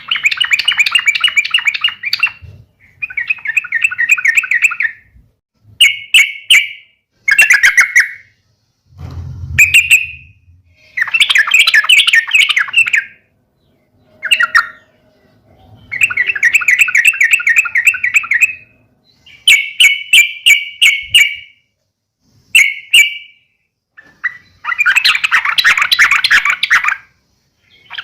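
Sooty-headed bulbul giving agitated fighting calls: about a dozen bursts of rapid chattering, each lasting from half a second to three seconds, with brief pauses and a few sharp clicks between them. This is the kind of call used to provoke other bulbuls into answering.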